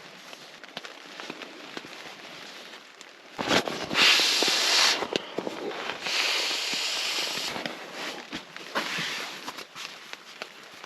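Wood fire in a small tent stove crackling and popping, with two louder hissing stretches of a second or so, about three and a half seconds in and again about two seconds later.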